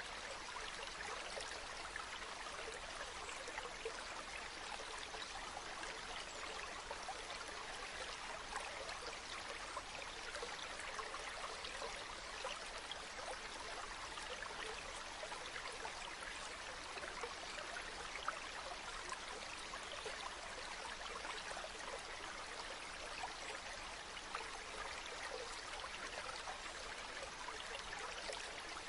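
A river's water running over stones in a steady, even rush, with many small splashes and trickles.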